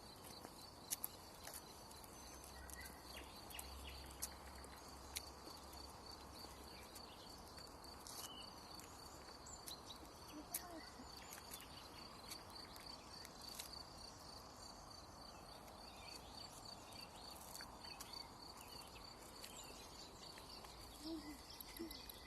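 Quiet outdoor ambience: a steady, high, pulsing insect trill with a few faint bird chirps and scattered soft clicks.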